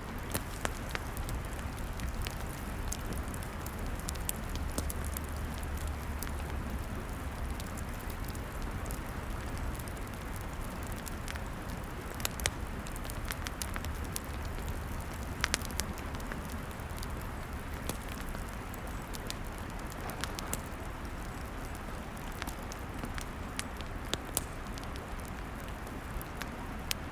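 Log fire burning with a steady hiss and low rumble, broken by irregular sharp crackles and pops, the sharpest about twelve and fifteen seconds in.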